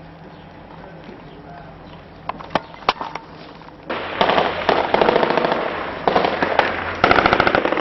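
Material burning under a thermite incendiary grenade: a few sharp cracks, then from about four seconds in a loud, fast run of crackling pops that comes in surges.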